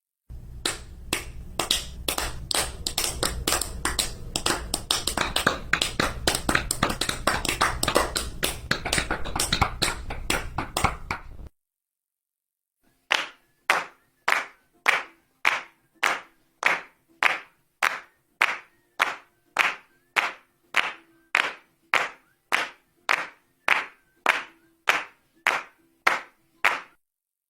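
Hands clapping: a fast, uneven run of claps for about eleven seconds, then, after a short pause, slow, steady single claps at about one and a half a second.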